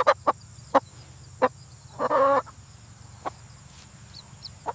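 Chicken clucking: short, sharp clucks scattered through, with one longer drawn-out call about two seconds in.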